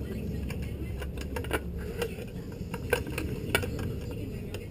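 Scattered light metallic clicks and clinks from hand tools and hardware being handled while fitting parts and bolts, over a steady low hum.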